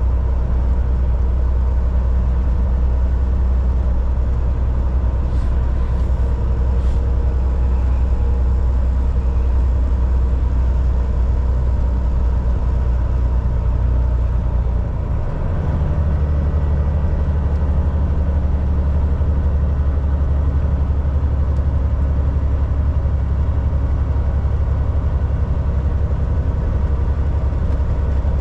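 Volvo VNL 760 semi truck's diesel engine running steadily at highway speed, with road and cab noise. About halfway through, the engine note dips briefly and then settles at a different pitch.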